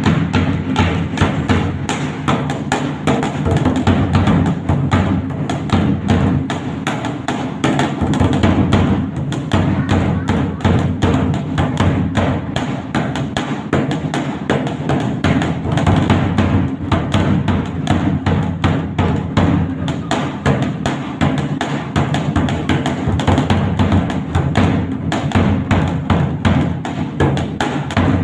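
Dhak, a large two-headed barrel drum, played with sticks in a fast, dense run of strokes with a heavy low boom.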